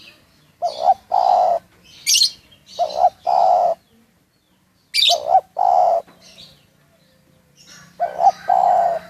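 Spotted dove (tekukur) cooing: four phrases, each a short coo followed by a longer one, repeating about every two to three seconds. Brief high chirps from a smaller bird come in between.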